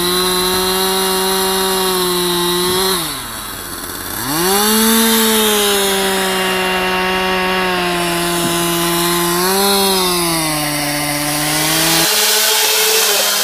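Two-stroke chainsaw running at high revs. Its pitch sags sharply about three seconds in and climbs back a second later, then holds fairly steady, with a brief rise and dip near ten seconds and an abrupt change in tone about twelve seconds in.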